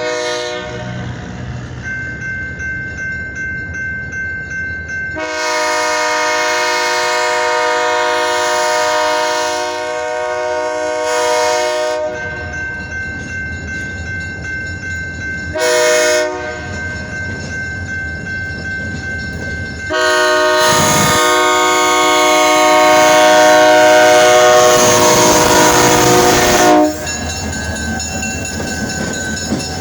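Diesel freight locomotive's multi-note air horn sounding a long blast, a short blast and a final long blast, the pattern of the grade-crossing signal. Between the blasts the engine rumbles and the wheels clatter on the rails as the train passes.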